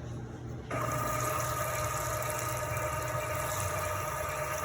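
Edhard Power Base MKVS stainless steel dosing pump starting about a second in and running with a steady whine, forcing water out through a shower-head spout as an even hissing spray. It is dispensing a 250 ml deposit, which takes about five seconds.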